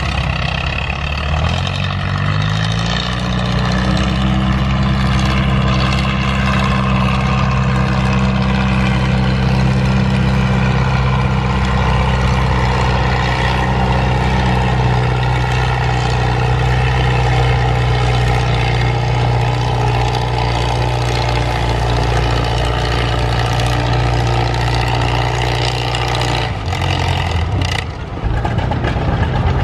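Tractor engine winding up over about three seconds, then held at a steady high speed for over twenty seconds before dropping back near the end.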